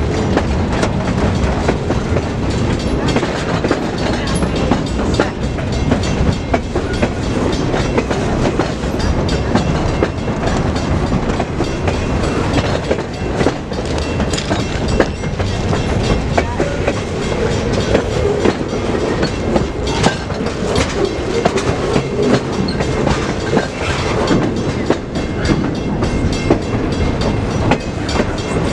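Freight train rolling past, with its cars clattering and wheels clicking over the rail joints in a steady, continuous racket of knocks and squeals.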